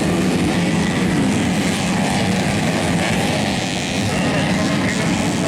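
Engines of modified underbone race motorcycles, up to 250 cc, running together in a loud, steady, rough drone that dips briefly about four seconds in.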